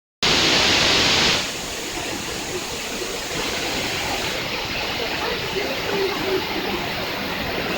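Waterfall: steady rushing of falling water, louder and hissier for about the first second.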